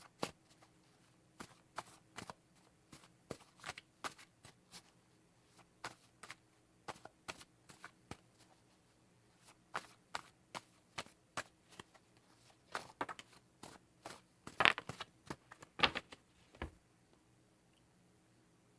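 Tarot cards being shuffled and handled: a run of irregular short snaps and clicks, a couple a second, with a few louder snaps near the end before the cards go quiet.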